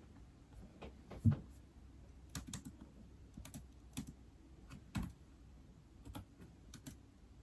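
Irregular typing on an iPad, scattered keystroke taps at an uneven pace, with one heavier thump about a second in.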